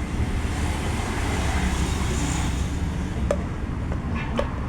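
Isuzu MU-X turbodiesel engine running, with a hiss that swells in the middle and then eases, as when the engine is revved. Two or three sharp clicks come near the end.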